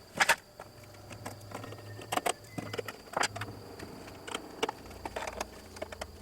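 Irregular clicks and knocks of small parts and tools being handled, over a steady low hum and a faint steady high whine.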